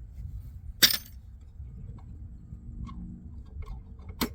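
Two sharp knocks from parts of a large circuit breaker being handled during teardown, the first and loudest about a second in, the second near the end, with a few faint taps between over a low rumble.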